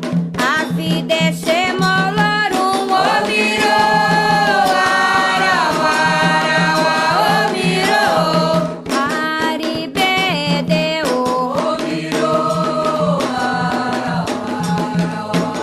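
A chorus of voices singing a Candomblé ponto for Xangô over steady drum percussion.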